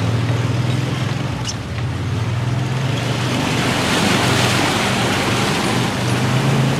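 Off-road vehicle engine running steadily as its tyres churn through a mud puddle, with the splashing and spray swelling about halfway through.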